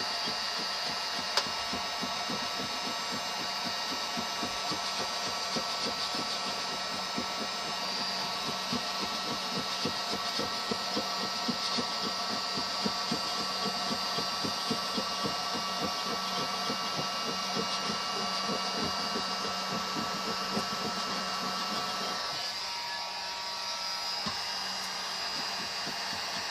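A small motor running with a steady hum, with fast, irregular ticking strokes over it. About 22 seconds in the strokes stop and the hum changes.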